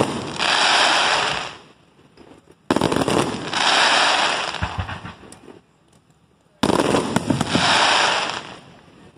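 Aerial firework shells bursting overhead: three sharp bangs a few seconds apart, each followed by a second or two of dense crackling as the stars burn out.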